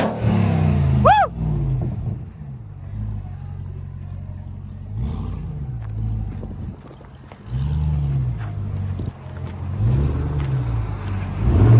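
Ram TRX's supercharged V8 engine revved in short blips over a steady idle, its note rising and falling back about five times. A short high chirp sounds about a second in.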